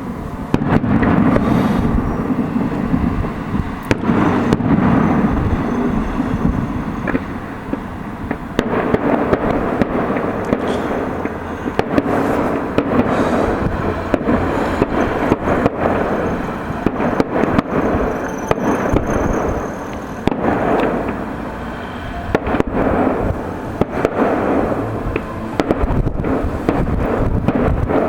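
Fireworks display: a continuous run of bangs and crackling bursts, many in quick clusters, with a faint high whistle briefly near the middle.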